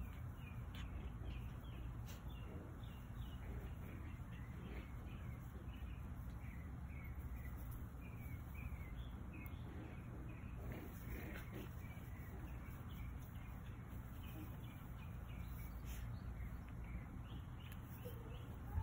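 Small birds chirping in a continuous run of short, high calls over a steady low outdoor rumble.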